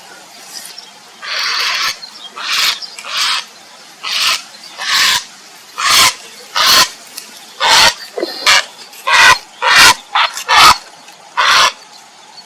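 Grey heron giving a series of harsh calls, about fifteen in quick succession, coming faster in the second half.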